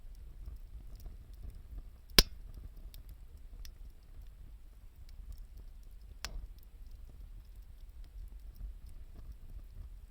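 Wood fire crackling: scattered faint ticks, with one sharp loud pop about two seconds in and a softer pop about six seconds in.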